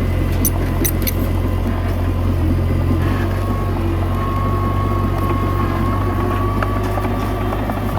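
Komatsu D21A bulldozer's diesel engine running steadily, with a thin high whine through much of it and a few light clicks in the first second.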